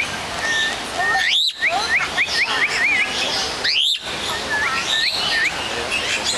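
Bird song: runs of short, quick upward-slurred whistled notes, several a second, broken by two louder, longer rising swoops about one and a half and four seconds in.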